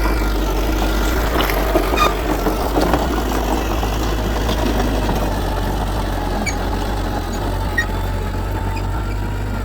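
Heavy diesel earthmoving machinery running steadily, with a few sharp knocks about two seconds in.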